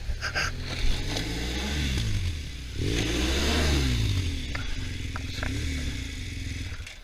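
Honda Africa Twin motorcycle engine under way, its pitch rising and falling several times as it accelerates and eases off. Its level drops sharply near the end.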